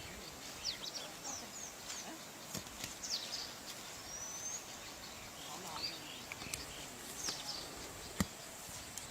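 Outdoor ambience: scattered short bird chirps and calls over a steady background hiss, with one sharp click about eight seconds in.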